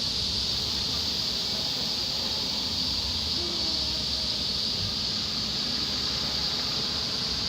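Cicadas in summer chorus: a steady, unbroken high-pitched drone that holds the same pitch and level throughout.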